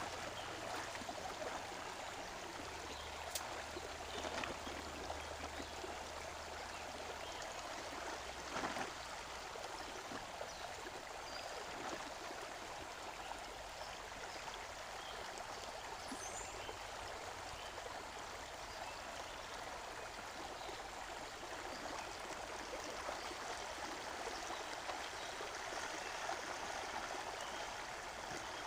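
Rainforest stream flowing steadily, with a couple of faint clicks.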